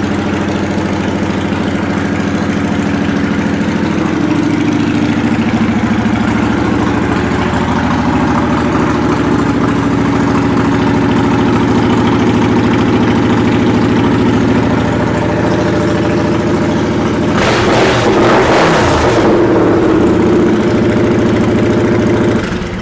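Kawasaki Vulcan 900 Custom's V-twin engine running through aftermarket exhaust pipes. It idles steadily, revs briefly once about seventeen seconds in, then settles and is shut off at the very end.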